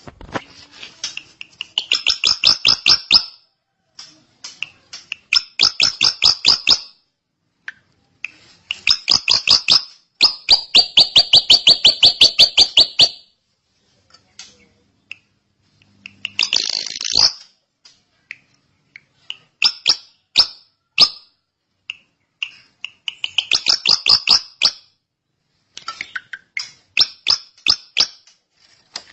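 Drongo singing in repeated bouts of fast, clipped chattering notes, several per second, with short pauses between bouts; one bout near the middle runs for about four seconds.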